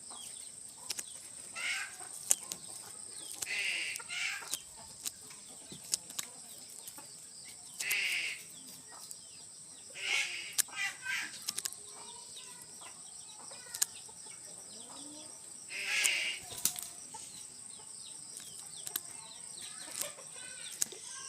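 A bird's wings flapping in several short bouts, each about half a second long, among scattered sharp clicks.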